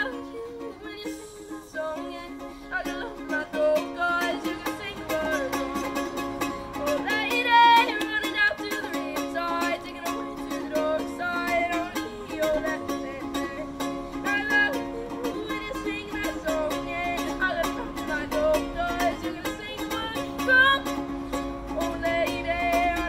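Music: a ukulele strummed steadily, with a wavering melody line above it.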